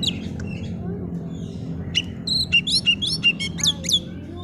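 Oriental magpie-robin (kacer) singing: a quick run of sharp, sweeping whistled notes, densest about two seconds in, over a steady low background hum.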